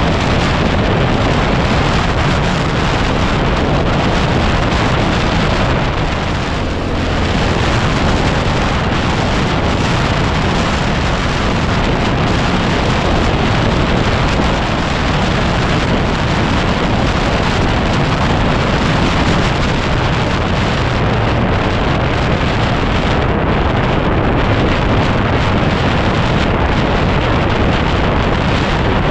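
Loud, steady wind buffeting on the microphone of a moving dirt bike, a 2010 Yamaha WR250R, smothering the engine.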